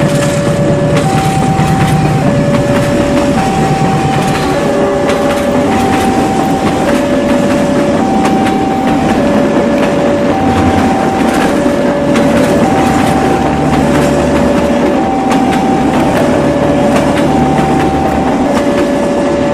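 Railway level crossing warning signal sounding a steady two-tone alarm, high and low notes alternating about once a second, over the rumble and clickety-clack of a train passing over the crossing.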